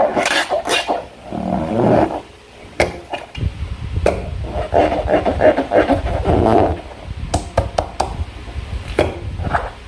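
Slime being squeezed and worked by hand, wet squelching with sharp sticky clicks and pops, several quick clicks near the end.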